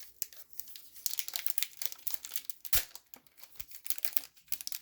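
Crinkling and tearing of a trading-card pack wrapper being ripped open and handled, with a dense run of crackly rustles and a sharp tap about halfway through.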